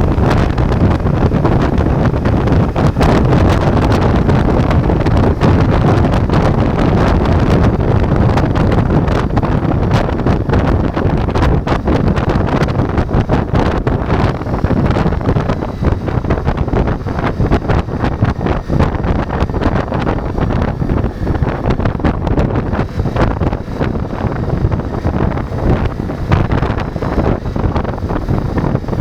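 Ducati Multistrada V4 motorcycle engine running while riding, mixed with heavy wind buffeting on the camera microphone.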